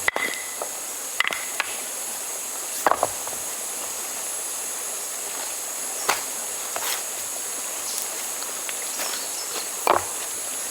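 Steady high-pitched chorus of insects, with a few scattered sharp knocks and clicks, about five in ten seconds.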